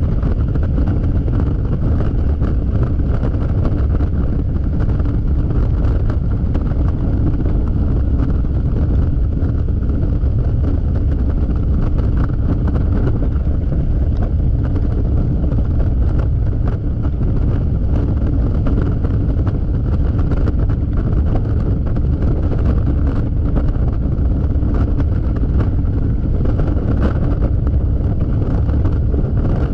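Steady wind rushing over the camera microphone of a Yamaha XMAX scooter at highway speed, with the scooter's engine running under it.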